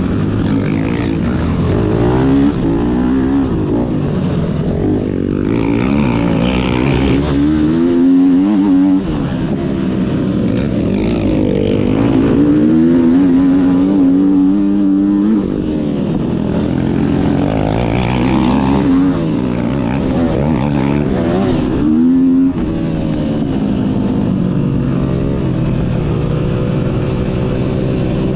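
Motocross bike engine under hard throttle. Its pitch climbs in long pulls and drops sharply each time the throttle is shut, three times over, with lower running in between.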